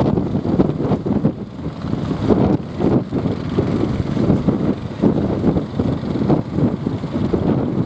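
Strong wind buffeting the microphone, a loud, uneven rumble that rises and falls in gusts.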